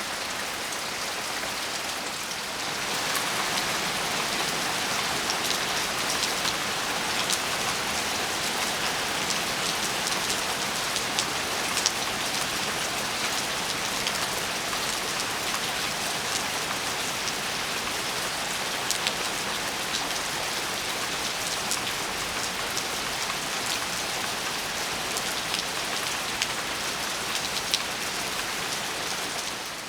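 Steady rain falling, with many sharp single drops ticking against a surface over the even patter. It grows a little louder about three seconds in.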